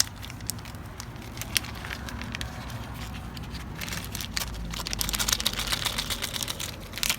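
Plastic bag of bolts crinkling and rustling as a bolt is fished out, with small sharp clicks of the hardware. It gets busier about halfway through.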